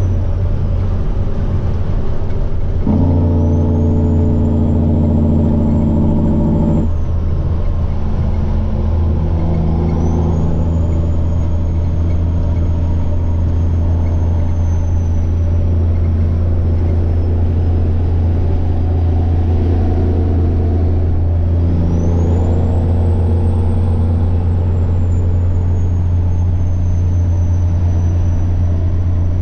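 Semi truck's diesel engine running with a steady low drone, its turbocharger whining high above it. The whine rises and fades three times as the throttle comes on and off. A heavier engine note from about three to seven seconds in cuts off suddenly.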